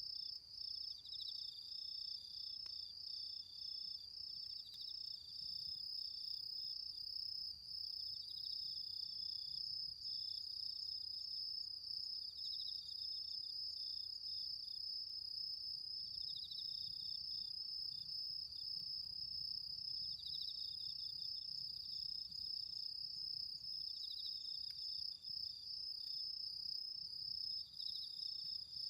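Autumn insects singing: one keeps up a steady, unbroken high trill, while another gives short pulsed chirping phrases about every four seconds. Two faint ticks stand out briefly.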